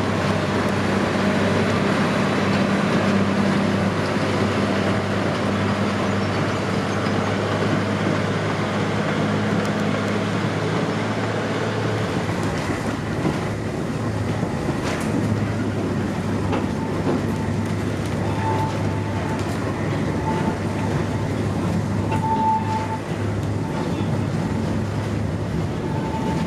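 Narrow-gauge passenger train running, heard from inside a carriage: a steady rumble and rattle of wheels on the track, with a low hum in the first half. In the second half a thin high squeal comes and goes several times.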